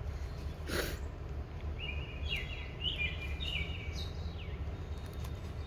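A songbird singing a run of short, falling chirps in the middle, over a steady low rumble. A single short scrape comes just before a second in.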